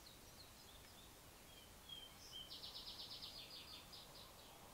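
Faint songbirds chirping over a quiet outdoor hiss. About two seconds in, one bird sings a rapid high trill lasting around two seconds.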